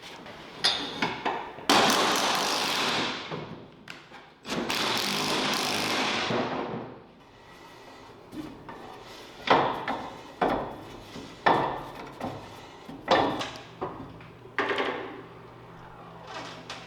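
Hand tools at work on metal: two longer rushing, scraping noises of a few seconds each, then a series of knocks and clanks about a second apart.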